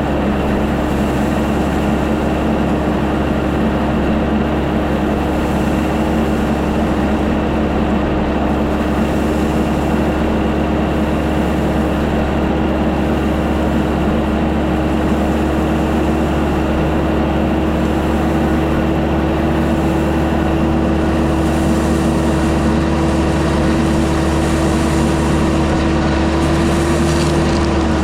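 Tractor diesel engine running steadily under work, a constant drone whose pitch creeps up slightly and falls off near the end.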